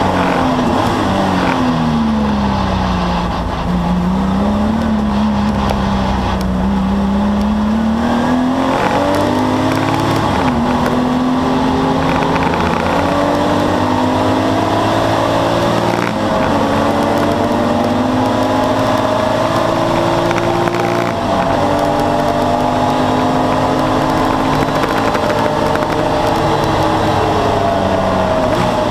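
Porsche 964 911's air-cooled flat-six heard from inside the race car's cabin: the engine note falls as the car slows for the first few seconds, then it pulls hard through the gears, climbing in pitch with upshifts at about ten, sixteen and twenty-one seconds in, and eases off again near the end.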